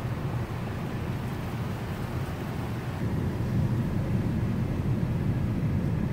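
Pickup truck's engine and tyre noise heard from inside the cab while it drives on a dirt forest road: a steady low rumble that grows a little louder about three seconds in.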